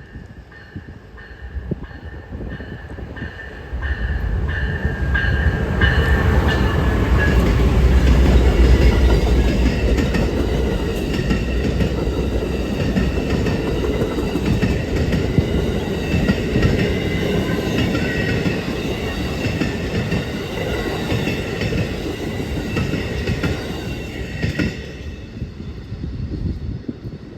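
Amtrak passenger train passing close by, led by two diesel locomotives. A deep engine rumble builds to a peak a few seconds in, then the wheels clatter on the rails with some squeal as the cars go by, fading away near the end.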